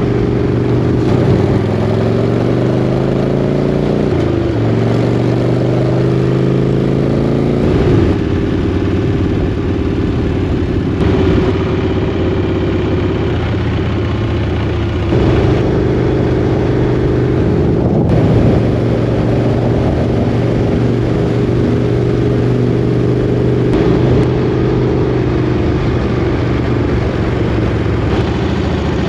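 Chopper motorcycle's engine running under way, climbing in pitch through the gears a couple of seconds in, then cruising with the pitch easing and picking up again as it slows and accelerates.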